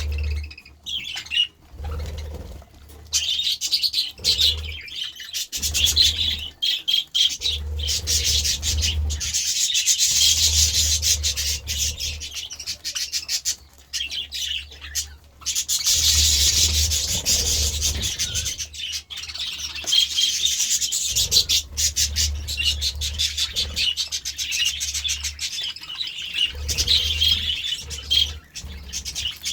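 A flock of budgerigars chattering and chirping continuously, in busy stretches of warbling that swell and ease off, with short clicks throughout. Low thumps or rumbles come and go underneath.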